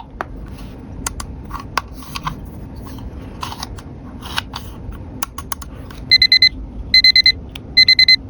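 Small plastic toy pieces clicking and being handled, then an electronic toy beeper starts about six seconds in, sounding short groups of rapid high beeps about once a second.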